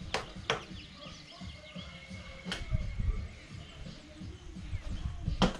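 A few sharp clinks and knocks of hand tools and metal mower parts being handled during a spindle and pulley repair, four in all, the loudest near the end, over a low rumble.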